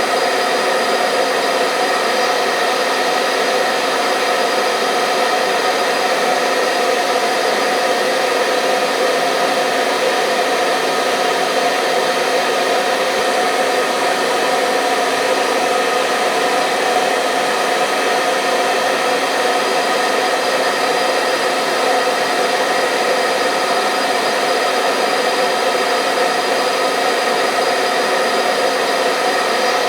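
Hair dryer blowing steadily: a constant whir of air with a fixed motor hum, unchanging throughout.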